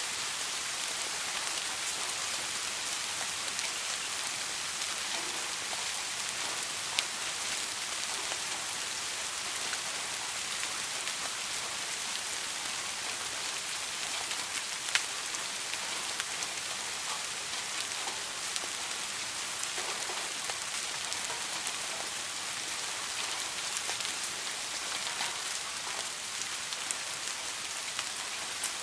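Steady soft rain falling on a surface, an even hiss with scattered individual drop ticks, two of them sharper and louder about 7 and 15 seconds in.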